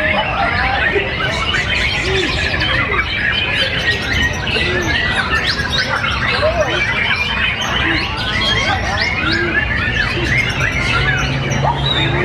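Many caged songbirds singing at once, mostly white-rumped shamas (murai batu), in a dense, unbroken tangle of overlapping chirps, trills and whistles over a low background murmur.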